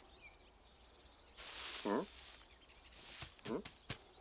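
Cartoon sound effects: a short hiss about a second and a half in, two brief voiced animal calls (one near the middle, one later), and a few light clicks, over a faint steady high-pitched background.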